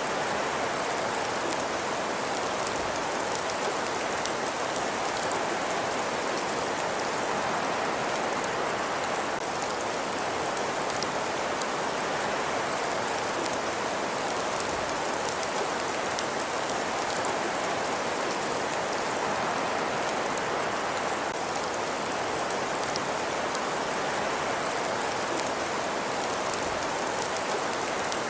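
Steady, even rain-like hiss with a fine patter of small crackles, unchanging throughout: a looped cozy ambience soundscape.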